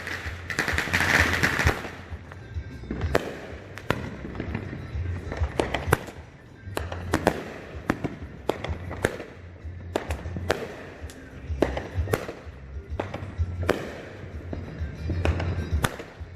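Fireworks going off: a string of sharp bangs, several close together at times, over background music with a pulsing bass.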